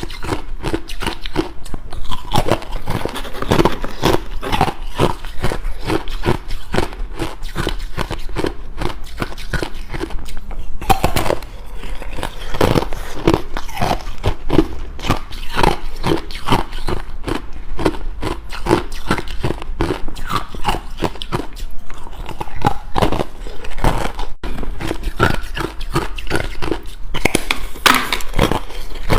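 Ice being chewed close to the microphone: a continuous run of sharp crunches and cracks, many a second.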